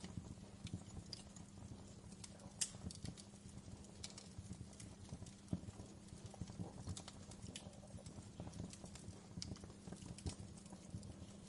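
Wood fire burning in a fireplace: a low steady rumble with irregular crackles and a few sharper pops.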